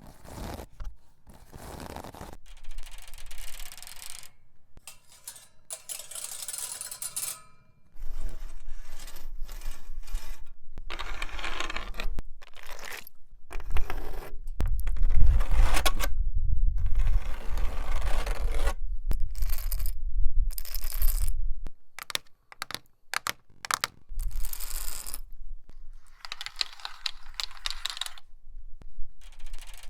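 A nail worn on a fingertip tapping and scratching on assorted hard surfaces: metallic clicks and scrapes in short stretches that change abruptly every few seconds.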